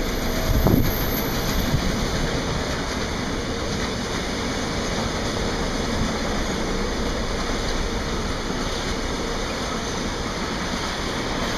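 Container freight wagons rolling past on the rails: a steady rumble and rush of steel wheels on track, with a faint high wheel whine in the first couple of seconds.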